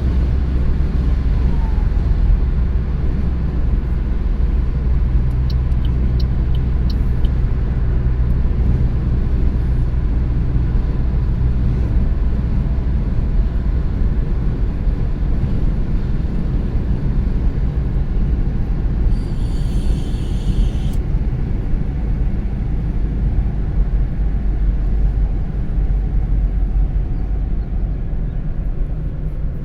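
A car driving along at road speed, with a steady low rumble of tyres and engine. A brief hiss comes about two-thirds of the way through.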